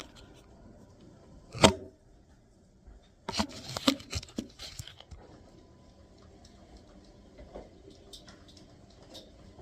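A single sharp click about one and a half seconds in, then about two seconds of knocking and clattering from hands handling hardware, then faint scattered ticks. No fan motor is heard running: the bathroom exhaust fan is dead.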